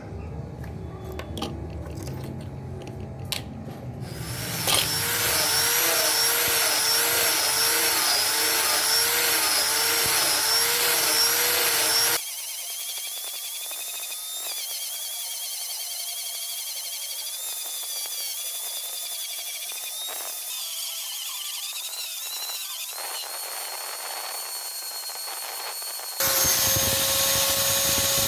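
Electric power tool running, starting about four seconds in, with a motor whine that wavers up and down in pitch. The sound changes abruptly twice: partway through it loses its low end, and near the end it becomes a steadier, louder whine.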